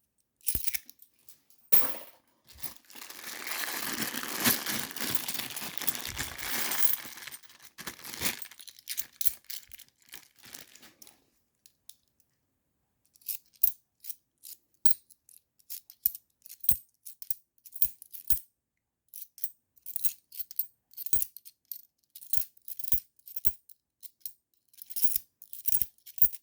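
Plastic coin bag rustling and tearing for about six seconds, starting some two seconds in. Later come many quick, irregular clicks of 50p coins knocking together as they are handled and sorted by hand.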